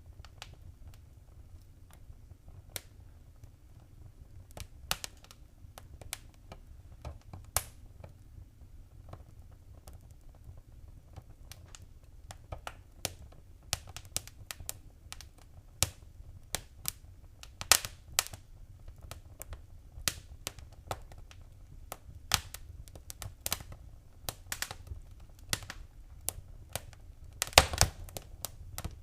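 Fire crackling in a fireplace: irregular sharp pops and snaps over a low steady rumble, the pops coming thicker in the second half, with a brief flurry of crackling near the end.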